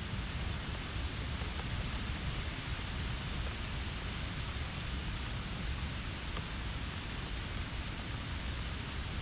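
Steady rain falling, with scattered faint ticks of individual drops.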